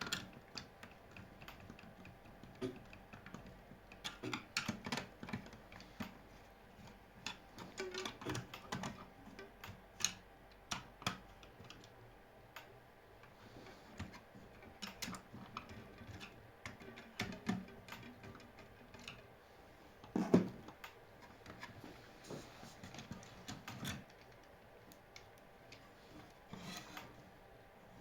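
Irregular clicks, taps and rubbing of small hard objects being handled, with one louder knock about twenty seconds in.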